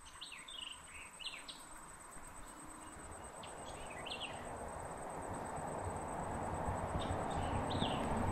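Short bird chirps in three brief groups, near the start, about four seconds in and about seven seconds in, over a steady high-pitched insect drone. A rushing outdoor noise grows steadily louder underneath.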